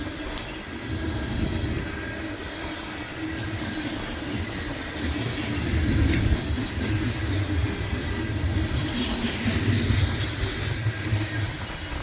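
Loaded coal train rolling past, its wheels clattering over the rail joints, with gusts of wind buffeting the microphone.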